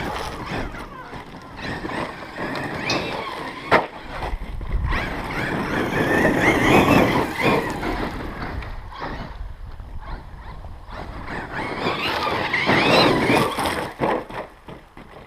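Losi LST XXL2-E electric RC monster truck driving, its brushless motor whining up and down in pitch as it speeds up and slows down, with tyre and ground noise. A sharp knock comes about four seconds in.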